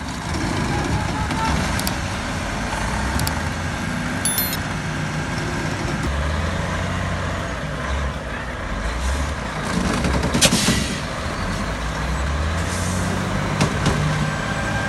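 Heavy truck engine running steadily, its low drone rising and falling a little in pitch under load, with a few faint clicks and one short sharp noise about ten seconds in.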